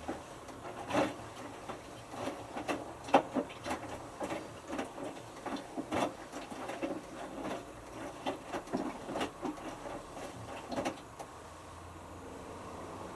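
Hotpoint Futura washing machine's drum turning early in a whites wash, giving irregular knocks and clatters over a low steady hum. The knocking stops about eleven seconds in and the hum carries on.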